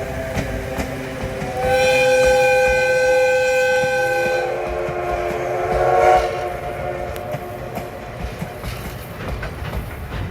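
Oigawa Railway's Thomas steam locomotive sounding its steam whistle: a long chord-like blast from about a second and a half in, then a lower chord that swells to a peak around six seconds. After that the train is heard rolling over the rails with rumbling and clicking.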